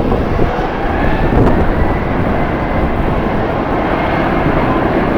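Jet airliner engines running, a loud steady rush with a faint whine over it, mixed with strong wind buffeting the microphone.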